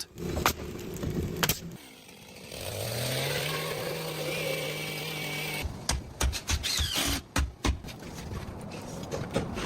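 A power saw runs for about three seconds, rising in pitch and then holding steady, and cuts off suddenly. A quick string of sharp knocks follows, typical of boards being nailed in place.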